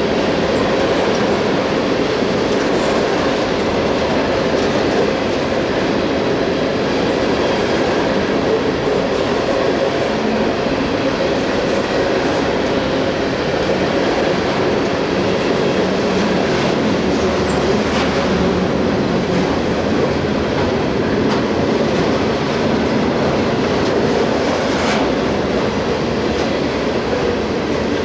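Freight cars of a CSX train rolling steadily past, with continuous wheel-on-rail noise and clicks over the rail joints.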